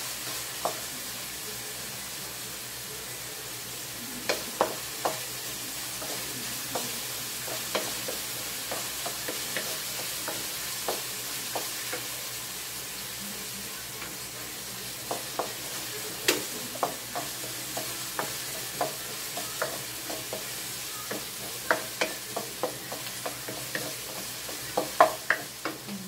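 Chopped garlic and onion sizzling in hot oil in a wok, with a steady hiss. A wooden spatula scrapes and taps against the pan as they are stirred, the taps coming in irregular runs.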